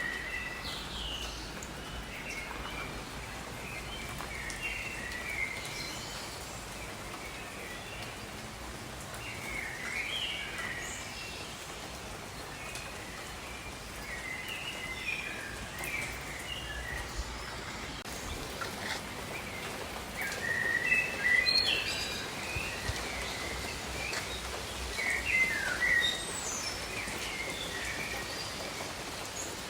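Several birds chirping and calling in short phrases over a steady hiss of rain, with louder bursts of song about two-thirds of the way in and again near the end.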